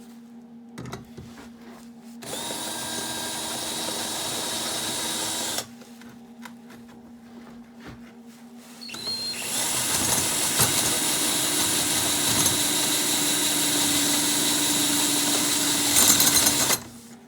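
Handheld electric power tool working metal, run in two long steady bursts that each stop abruptly; the second is the longer and louder, with a spin-up at its start.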